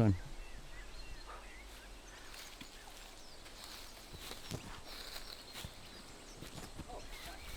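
Faint woodland ambience, with a few high bird chirps about halfway through and scattered light clicks and rustles.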